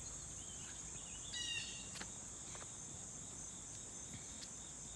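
A steady high-pitched chorus of insects trilling in late-summer grass and trees, with one short high chirp about a second and a half in.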